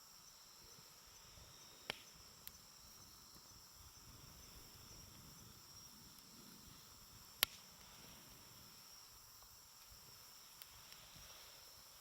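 Wood campfire burning with a few sharp crackles and pops, the loudest about seven seconds in, over a faint, steady, high chirring of crickets.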